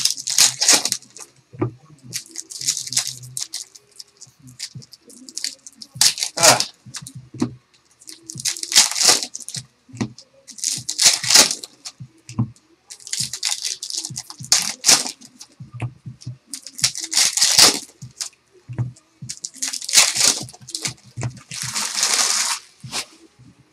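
Trading-card packs being torn open and cards handled: about ten short bursts of wrapper tearing and crinkling and cards sliding against each other, roughly every two seconds, with light clicks of cards between them.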